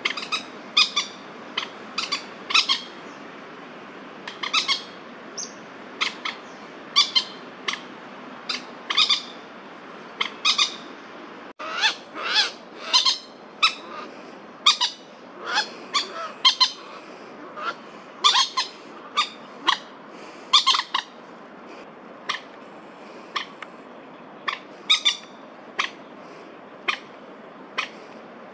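Common moorhens giving repeated short, sharp alarm calls at an irregular pace, one to three a second, in alarm at a Crested Goshawk close by.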